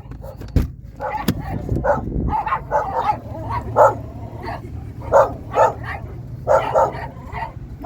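A dog barking and yipping in quick short calls, over a steady low hum.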